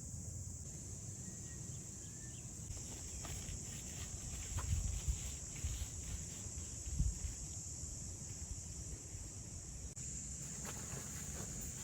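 Steady high-pitched insect chorus over a low rumble, with a few soft thumps about halfway through.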